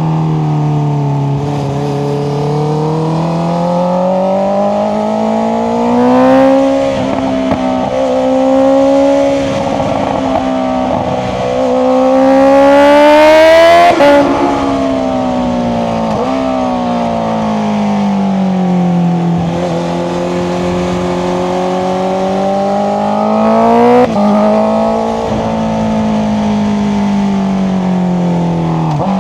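Honda CBR650R's inline-four engine through an Akrapovic exhaust, pulling up through the revs and easing off several times. The longest and loudest pull, about halfway through, climbs steadily and then drops off sharply, and there are brief sharp breaks in the engine note about six seconds in and near the end.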